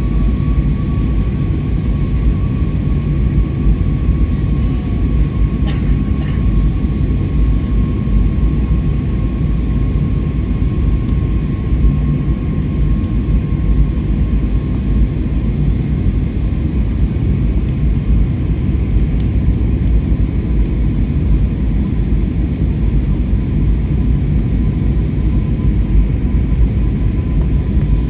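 Steady low roar of cabin noise inside an Airbus A321neo airliner, with a faint steady whine running through it and two brief clicks about six seconds in.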